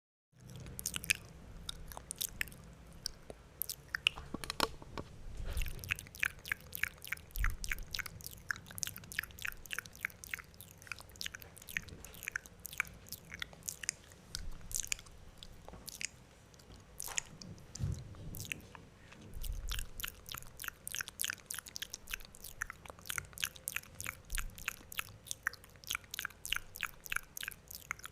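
Loud wet mouth sounds close to the microphone: quick clicks and smacks, several a second, with a few soft low thumps among them.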